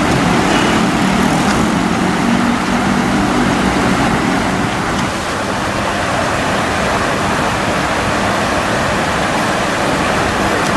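Saltwater gushing up from a burst underground water main, a loud, steady rush. A vehicle engine hums along with it for the first half, fading out about five seconds in.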